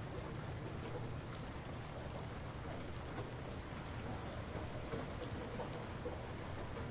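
Light rain falling steadily, with scattered individual drops ticking over an even patter and a low steady rumble underneath.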